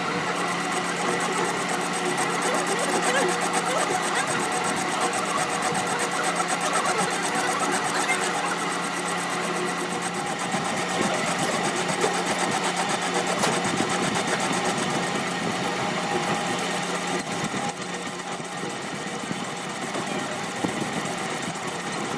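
A workshop machine running steadily with a constant hum and a fine, even rattle; for a couple of seconds near the end it clatters louder in quick pulses.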